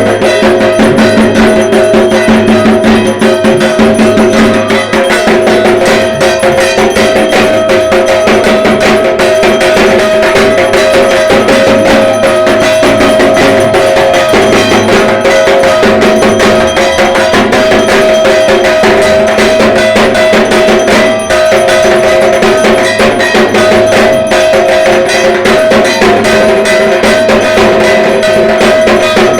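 Dhak, the Bengali barrel drum of Durga Puja, beaten with sticks in a fast, continuous rhythm, with a steady metallic ringing over the strokes.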